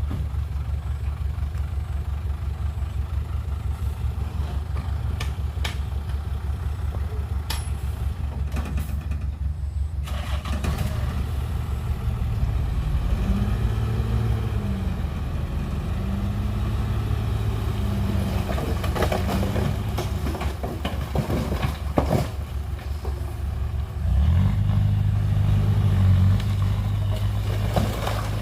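Heavy diesel construction machinery running: a steady low idle at first, then the engine working harder with its speed rising and falling. A single sharp knock comes a little past the middle, and the engine revs up louder near the end.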